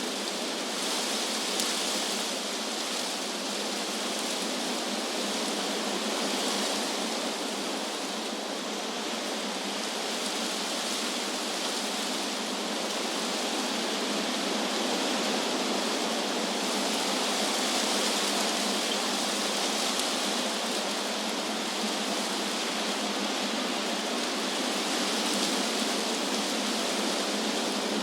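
Wind rushing through tree leaves, a steady hiss that swells and eases every several seconds.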